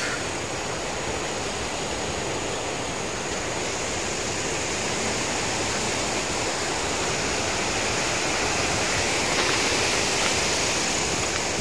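Strong gusting wind blowing, a steady rushing noise that swells a little near the end.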